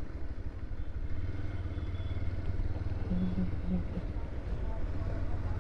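Motorcycle engine running steadily while riding, a low rumble mixed with road and wind noise.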